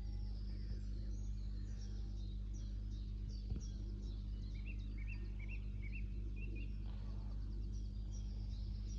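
Small birds chirping and singing over a steady low background rumble. Between about four and a half and six and a half seconds in, one bird gives a quick run of short rising chirps.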